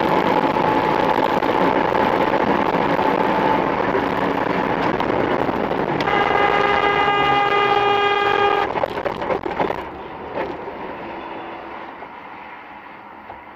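Train passing close by with a heavy, steady rumble. Its horn sounds one long blast about six seconds in, lasting nearly three seconds and cutting off sharply. After that the rumble dies away, with a few scattered clicks.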